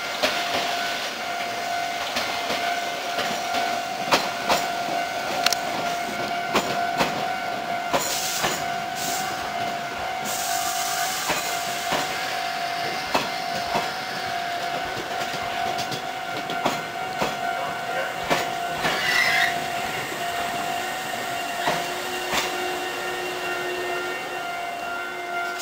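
Hankyu 3000 series electric train pulling slowly into a station, its wheels clacking over rail joints and points. A steady high ring runs under it until near the end, with a burst of air hiss about eight seconds in.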